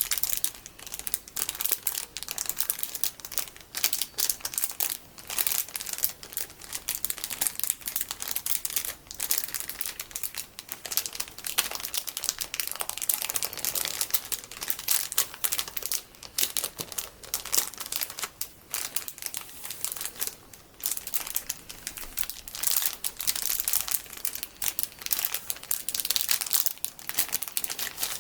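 Plastic packaging of large, colorful sticky beads being crinkled and squeezed by hand: dense, irregular crinkling throughout.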